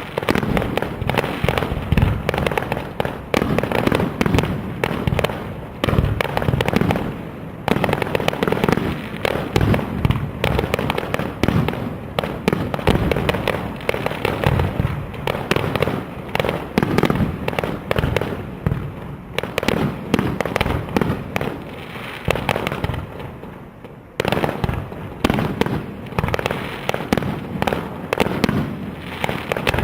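Fireworks display at full tilt: a dense, continuous barrage of shells and cakes bursting, thuds and bangs overlapping with crackle, easing briefly about three quarters of the way through before the bangs resume.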